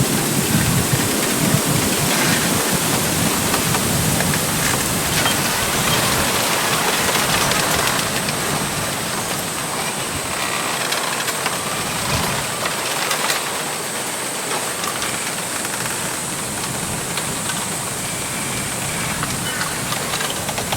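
Wind rushing through a bamboo grove, the stalks rubbing and knocking against each other with scattered faint clicks. The gusts are stronger, with a low rumble, in the first half, then ease to a steadier rush.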